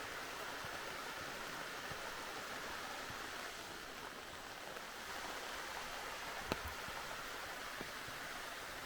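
Steady rain, a continuous hiss with scattered taps of drops, one sharper tap about two-thirds of the way through.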